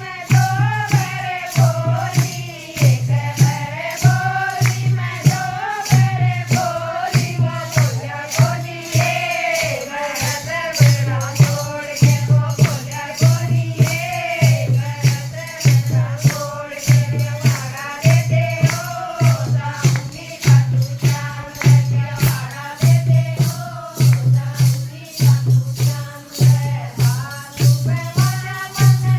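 Haryanvi bhajan: a wavering sung melody over a steady beat of deep drum thumps, about two a second, with a shaker ticking between them.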